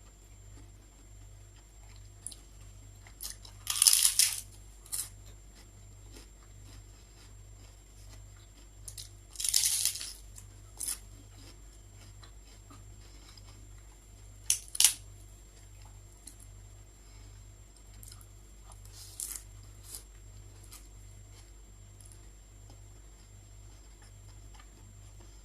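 Close-up crunching of crisp prawn chips being bitten and chewed: four loud crackly bites, the biggest about four and ten seconds in, with quieter chewing between. A faint steady electrical hum runs underneath.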